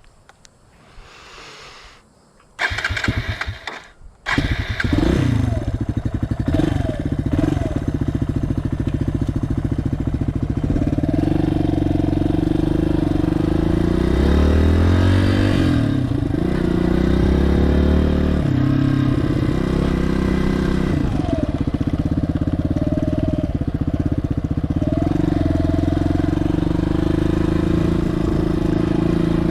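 A Suzuki DR200S's air-cooled single-cylinder four-stroke engine is started a few seconds in, with a short burst and a brief stumble before it catches. It then runs steadily, its pitch rising and falling as the bike is ridden.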